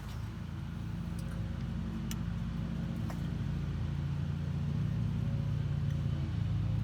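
A steady low machine hum that grows slightly louder, with a few faint clicks.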